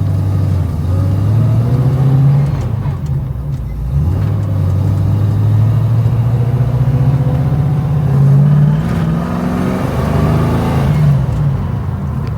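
1969 Ford Mustang Mach 1's V8 engine running and revving, its pitch rising and falling several times.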